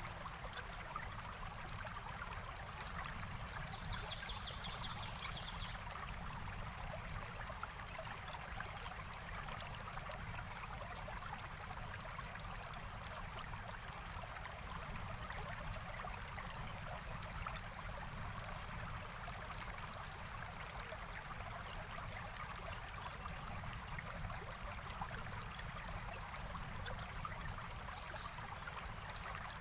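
Forest stream flowing steadily with an even rush of water. About four seconds in, a bird gives a short, high, rapid trill lasting a couple of seconds.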